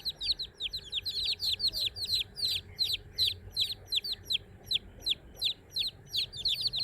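Chickens, most likely young chicks, peeping continuously: short, high-pitched calls that drop in pitch, several a second and often overlapping, as from a group.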